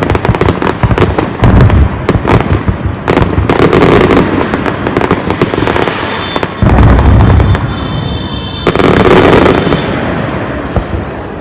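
Aerial fireworks going off in a dense barrage of crackling and popping, with deep booms about two seconds in and again around seven seconds in, thinning out near the end.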